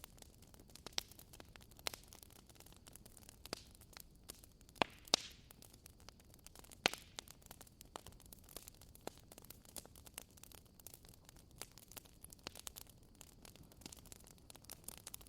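Wood fire crackling in a fireplace: irregular sharp pops and snaps over a faint steady hiss, with a few louder snaps in the first seven seconds.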